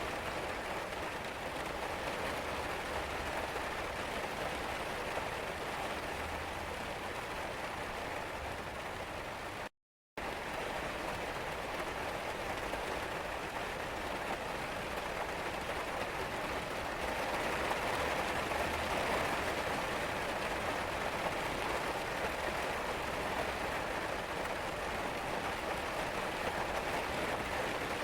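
Steady rain falling, an even patter of raindrops on surfaces. It drops out to dead silence for about half a second around ten seconds in, then resumes, and swells slightly a little past the middle.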